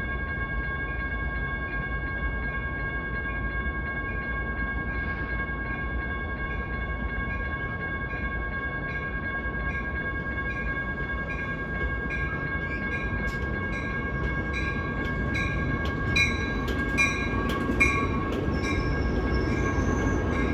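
Amtrak San Joaquins passenger train approaching through a quiet zone. A bell rings about twice a second over steady high tones, and the rumble and clicking of the train grow louder in the last few seconds.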